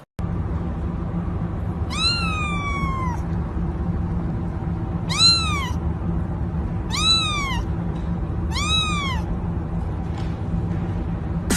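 A cat meowing four times, each call rising and then falling in pitch, the first one longest.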